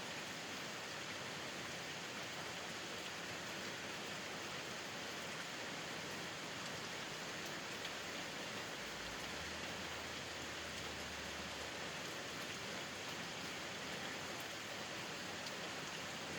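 Steady rain falling: an even hiss with a few sharper drop ticks.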